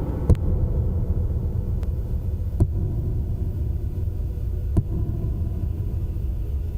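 Low, throbbing electronic drone from a live industrial noise set, a dense rumble with a few sharp clicks scattered through it.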